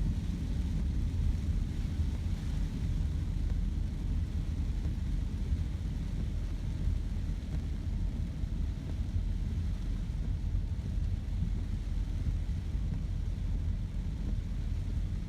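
Storm wind buffeting the microphone: a steady low rumble with only a faint hiss above it.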